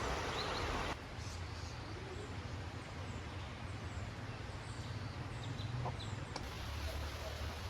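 Birds chirping in many short, high calls over a steady rushing background with a low hum. The background drops abruptly about a second in and shifts again near the end.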